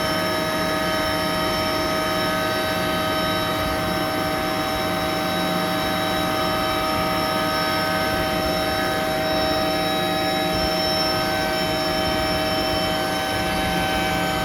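Carrier chiller running: a steady mechanical drone with several constant whining tones over it, unchanging throughout.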